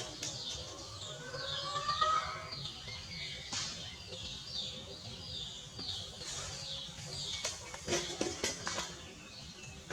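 Birds chirping over and over in short, high, falling notes, with a few sharp knocks or taps, mostly in the last few seconds.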